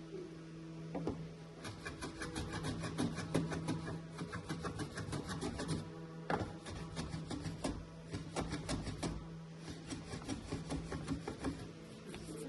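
Hand tool rubbing on wood in quick back-and-forth strokes, several a second for a few seconds, then slower and more spaced, as the drawer's fit is trimmed and sanded. A steady low hum runs underneath.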